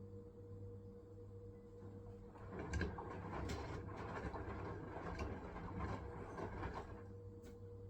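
Hisense washing machine on its wool cycle, with a steady low hum. About two and a half seconds in, the drum turns for roughly four and a half seconds with a noisy swishing sound and light knocks, then stops.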